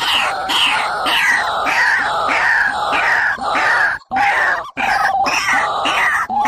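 Recorded bird calls played as a trapping lure: a fast series of harsh notes, each sliding down in pitch, about three a second, with two short breaks partway through.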